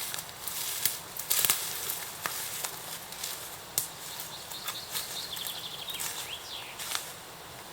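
Forest ambience: small birds calling in short rapid note series and gliding notes, with irregular sharp snaps and rustles, the loudest about one and a half seconds in.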